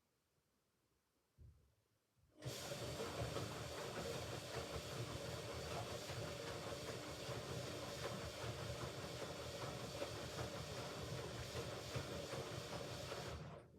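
Hoover Ecologic Computer Washer 1300 filling with water for a rinse: a low knock, then water rushing into the machine with a steady hiss and a faint hum for about eleven seconds before it cuts off suddenly.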